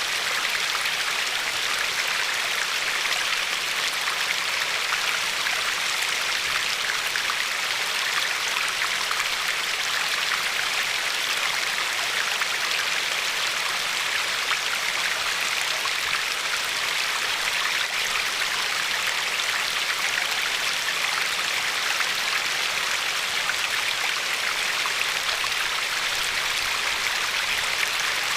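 River water flowing steadily and lapping along a pebble shore: a constant rushing with a fine, splashy texture, even in level throughout.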